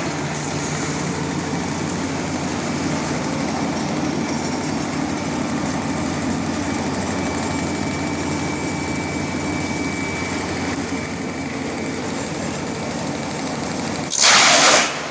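Electric disc wood chipper running steadily with a constant machine hum. Near the end there is a loud burst of noise lasting under a second.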